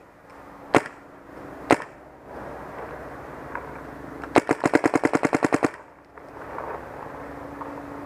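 MacDev Clone VX paintball marker, fitted with a 14-inch Freak barrel back and Luxe tip, firing: two single shots about a second apart, then a quick ramping string of about a dozen shots at roughly ten a second.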